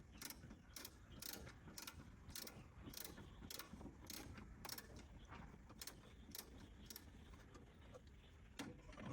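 Faint, regular mechanical clicking, about two clicks a second, which pauses about seven seconds in before one more click near the end.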